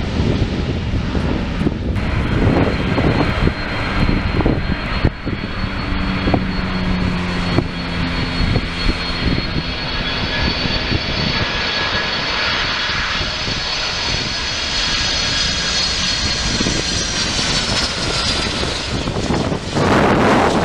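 Wide-body jet airliner passing close by at LAX, its engines giving a steady roar with a high whine that slides down in pitch near the end as it goes past.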